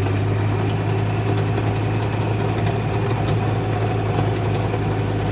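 An engine running steadily at idle, an even low drone that holds without change.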